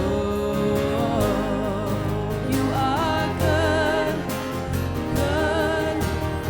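Live worship band playing a slow song with a lead vocalist singing held, wavering notes over a steady beat.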